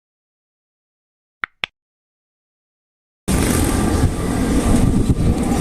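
Two quick double blips on silence, then, about three seconds in, the sound cuts in abruptly to a loud, steady, rushing rumble of an Airbus A320neo airliner's jet engines.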